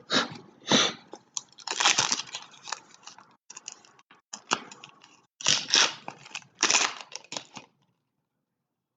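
Foil trading-card pack wrappers being torn open and crinkled by hand, in a run of irregular crackling bursts that stops a second or so before the end.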